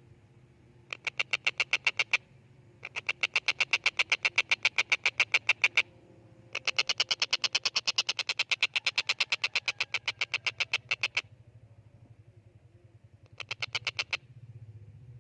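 Tengkek buto kingfisher calling in bouts of rapid, evenly repeated sharp notes, about eight or nine a second. There are four bouts: a short one about a second in, a longer one around three seconds, the longest and loudest from about six and a half to eleven seconds, and a brief one near the end.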